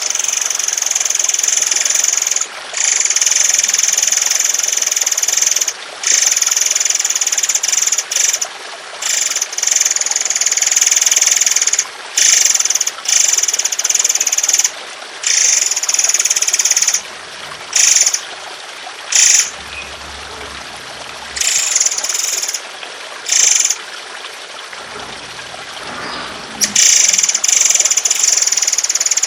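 Songbird giving long, harsh, rasping call phrases in stretches of one to three seconds with short breaks between them. Steady trickling water runs underneath.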